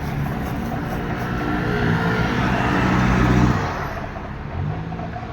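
A motor vehicle's engine passing close by, rising in pitch and getting louder until about three and a half seconds in, then dropping away.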